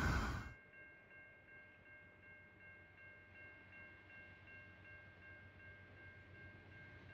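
Rumble of a passing train that cuts off abruptly about half a second in. Then faint, steady high chiming tones over a low background hum.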